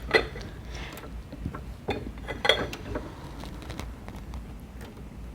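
Clay teaware being handled, with a few light ceramic clinks and knocks and one ringing clink about two and a half seconds in, then only faint ticks.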